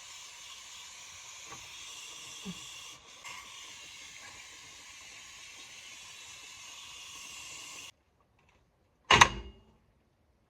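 Aerosol brake cleaner sprayed onto the drum brake assembly: a steady hiss lasting about eight seconds that stops abruptly. About a second later comes a single sharp metallic clank.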